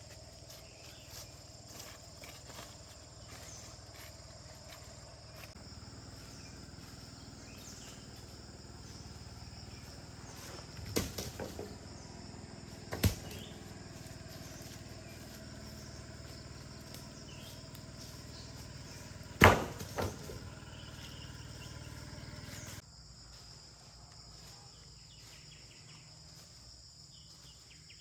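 Insects chirring steadily in high, even tones, broken by a few sharp knocks, the loudest about two-thirds of the way through.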